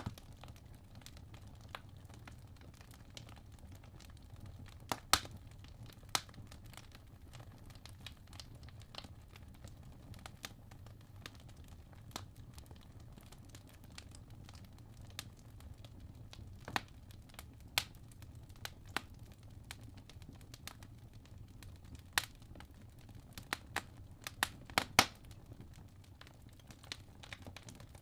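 Wood logs burning in a fireplace: sharp irregular crackles and pops over a low steady rumble of the flames, thickest in a cluster of pops near the end.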